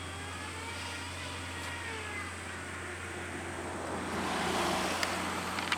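Steam train running on the Chichibu Railway line: a steady low rumble with faint rising and falling squeals, and noise swelling about four seconds in.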